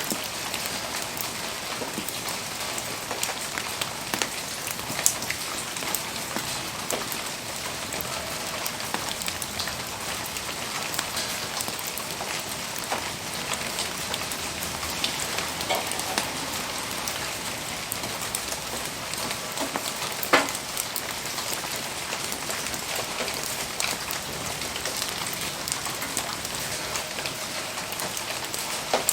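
Steady rain hissing, dotted throughout with small sharp ticks and pops from a wood bonfire crackling and from raindrops, with one louder pop about twenty seconds in.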